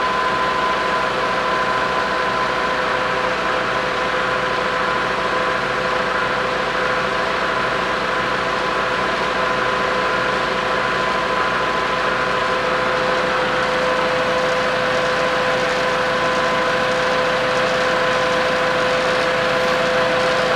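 Six-cylinder engine of a 1928 Graham-Paige 614 running steadily with its timing chain and sprockets exposed and turning, a steady whine over the even running noise.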